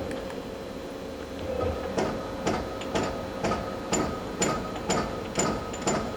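The 12-station turret of a Nakamura-Tome Slant-3 CNC lathe indexing from station to station, with a sharp mechanical clunk at each step. About two clunks a second begin about two seconds in, over a steady hum from the machine.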